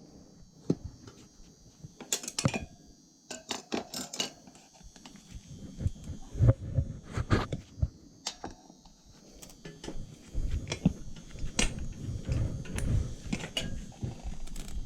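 Hand tools and metal parts being handled: scattered clinks, knocks and scrapes at irregular intervals.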